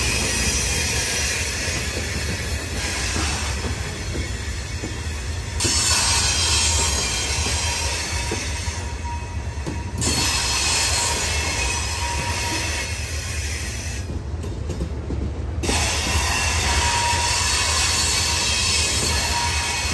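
Loaded freight cars rolling slowly past on the rails, with a steady low rumble and high-pitched wheel squeal that swells and fades every few seconds.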